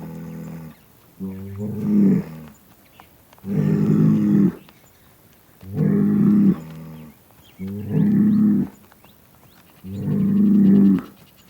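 Cow mooing: a series of five calls, each about a second long, coming roughly every two seconds.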